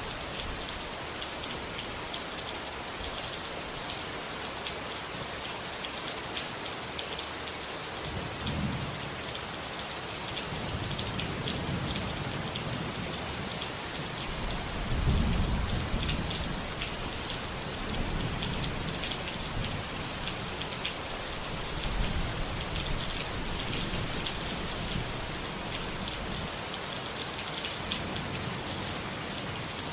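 Steady rain falling, with a dense patter of drops. Rolling thunder rumbles in from about eight seconds in and is loudest about halfway through, with another swell a little later.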